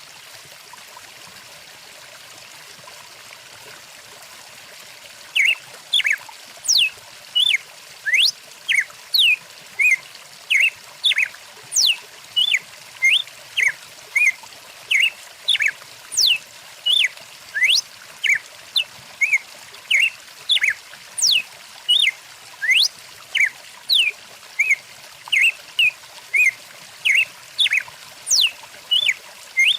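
Stream water running steadily. From about five seconds in, a bird calls loudly over it in quick, repeated short sweeping notes, nearly two a second.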